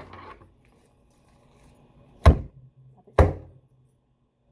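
Two sharp knocks about a second apart, from handling an old accordion and its strap.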